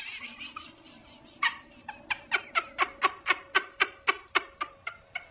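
A small animal's short, squeaky calls repeated rapidly, about four or five a second, starting about one and a half seconds in, each call dropping in pitch.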